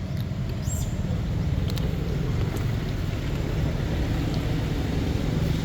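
A steady low motor rumble under wind noise, with a brief high chirp about a second in.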